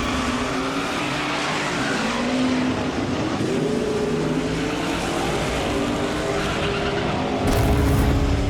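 A car engine revving hard with tyres squealing, a burnout-like sound with shifting engine pitch. A heavier low rumble comes in near the end.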